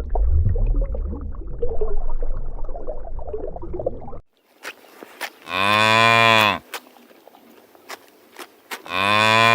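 A cow mooing twice, two long calls of about a second each, three seconds apart, each rising and then falling in pitch. Before them, a low rumbling background cuts off suddenly about four seconds in.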